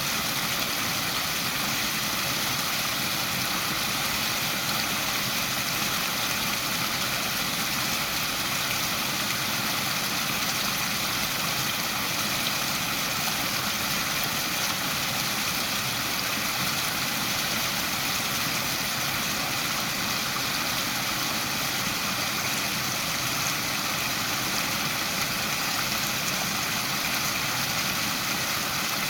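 Waterfall splashing steadily: an even rushing hiss of falling water with no change in level.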